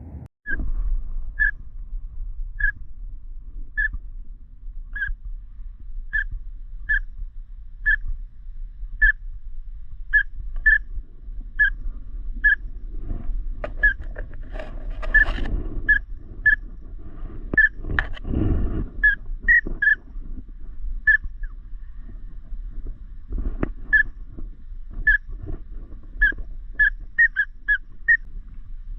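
Drake pintail whistle: short, high whistled peeps repeated about once a second, some in quick pairs. A steady low rumble lies underneath, with a few knocks around halfway through.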